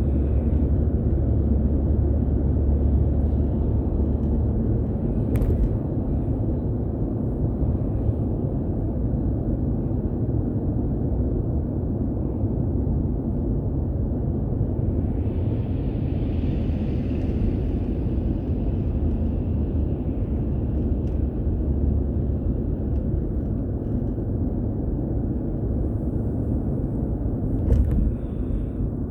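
Steady low rumble of a car on the move, tyre and road noise, with a hiss that swells and fades about halfway through and a short knock near the end.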